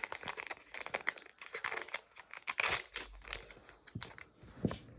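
Thin plastic wrapping of a small toy pouch crinkling and tearing, in short irregular rustles, as a miniature item is unwrapped.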